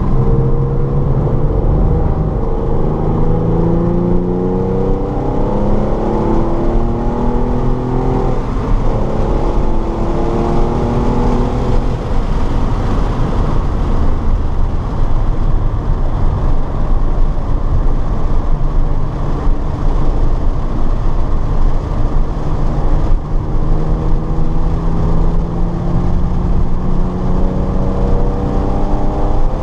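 A car's engine under hard acceleration on a racetrack, its pitch rising again and again as it pulls through the gears, over steady road and wind rumble. The pitch steadies through the middle and climbs again near the end.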